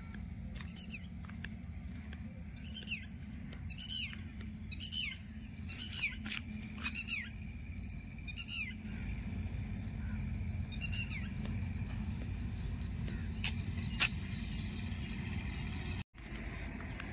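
A bird calling repeatedly: high notes sweeping downward, about one call a second, stopping after about eleven seconds. Underneath is a steady low rumble.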